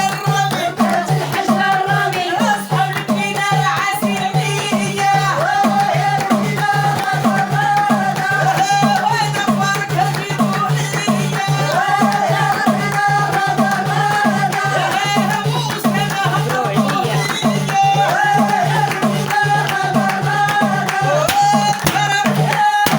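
Moroccan folk-pop song: a woman's voice and group singing a wavering melody over a steady drum beat, shakers and a held low drone. The music stops near the end.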